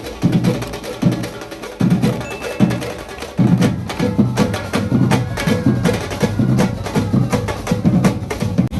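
Carnival percussion band drumming a fast, steady rhythm of drum strokes with sharp clicking hits on top, growing fuller about three and a half seconds in.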